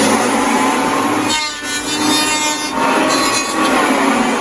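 Electric woodworking saw running and cutting through wood, with a steady motor hum and a higher whine that wavers in pitch between about one and three seconds in.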